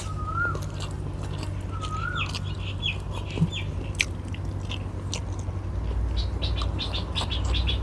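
Close-up chewing and lip-smacking of a person eating by hand, in quick clusters of short wet clicks, with a bird calling twice near the start, a short whistle that rises then falls. A low steady hum runs underneath.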